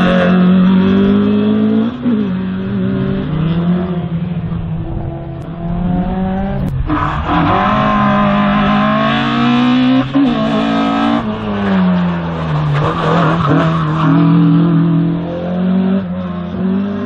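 Slalom race car's engine revving hard through the cone course, its pitch climbing and falling again and again as the driver accelerates and lifts between the cones.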